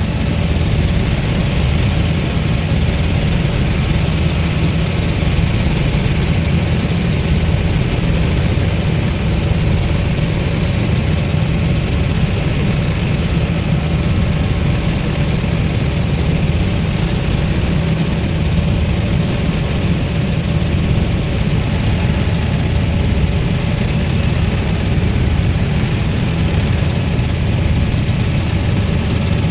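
Helicopter engine and rotor noise in flight: a loud, steady, deep drone with a thin high whine above it.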